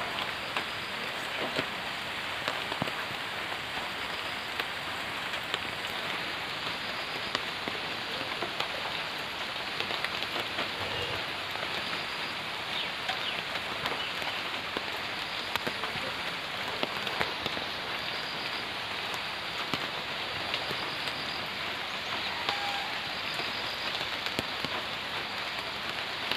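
Steady rain, an even hiss dotted with many small, sharp ticks of drops.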